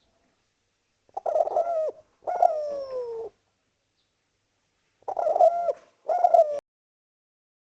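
Spotted dove (derkuku) cooing: two paired coo phrases, the first starting about a second in and the second about five seconds in, with the second note of the first pair sliding down in pitch.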